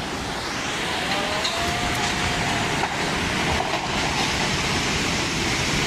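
Floodwater rushing through a street, a dense, steady noise.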